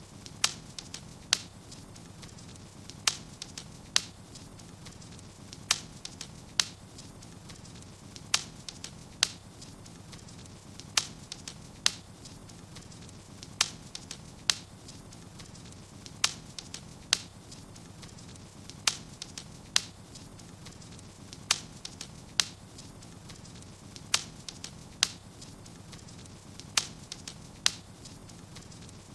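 Wood fire burning in a fireplace: sharp crackles and pops, often in quick pairs, come about once a second over a low steady hiss.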